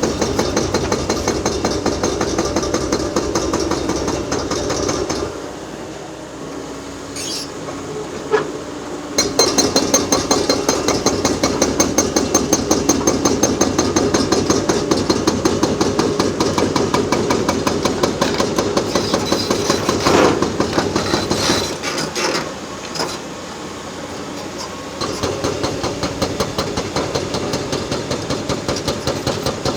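Excavator-mounted hydraulic breaker hammering concrete in rapid, even blows over the excavator's running engine. The hammering stops about five seconds in, starts again around nine seconds, and pauses once more near the end.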